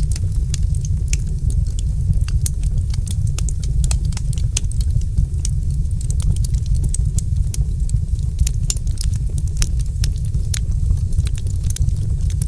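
Wood fire crackling: frequent irregular pops and snaps over a steady low rumble of flames.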